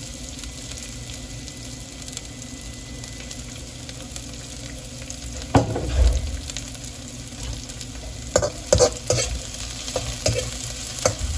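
Onions and peppers sizzling steadily in hot oil in a wok. About five and a half seconds in there is a knock, and from about eight seconds a metal spatula clatters and scrapes against the wok as it stirs the vegetables.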